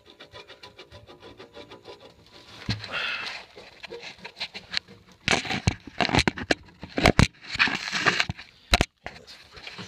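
Scraping, crackling and rustling of handling and movement in a sandy crawlspace, with sharp clicks and knocks. It opens with a run of faint quick ticks and grows louder and more irregular about three seconds in.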